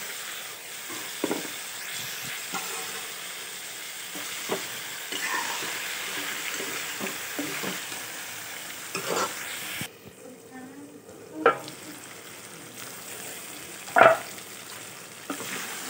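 Pork and vegetables frying and sizzling in a wok while being stirred with a metal spoon, which scrapes and clicks against the pan. There are a few louder knocks of the spoon on the pan, the last one near the end.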